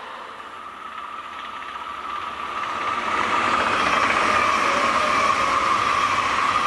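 SBB electric passenger train running past on the mainline, its wheel and running noise with a steady whine growing louder and levelling off about three seconds in as it comes alongside.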